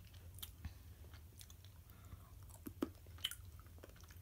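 A child chewing a chocolate-covered caramel, faint, with irregular small crunchy clicks and two sharper ones about three seconds in.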